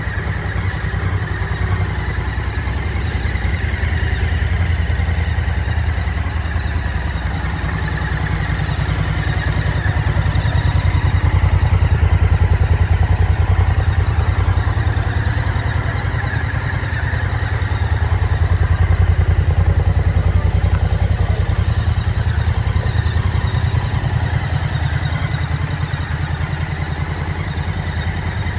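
Morbidelli C1002V motorcycle's V-twin engine idling steadily with a low, even beat. Its loudness swells gently twice, about midway and again about two-thirds of the way through.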